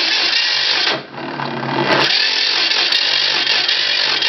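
1944 John Deere Model A's two-cylinder engine being cranked and firing unevenly with blasting pops, in two bursts with a brief dip about a second in, without settling into a run. The owner suspects the spark plug wires are swapped.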